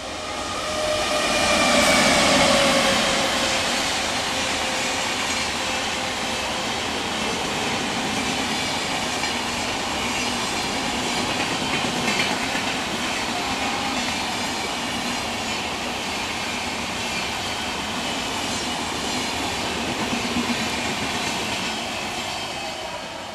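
A train passes close by, its wheels clattering over the rail joints in a steady rush of noise. It is loudest about two seconds in, where a whine falls in pitch as the locomotive goes by.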